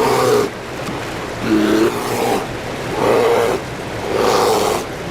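Bears roaring and growling four times as big males fight over a fishing spot, over the steady rush of river water.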